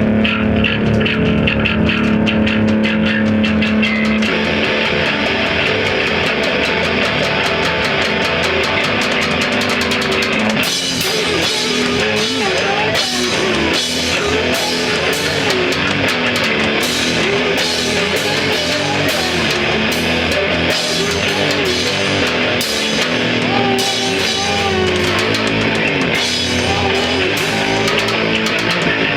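Rock band playing live: distorted electric guitars with bass and drums. The band gets fuller about ten seconds in, with busier cymbals.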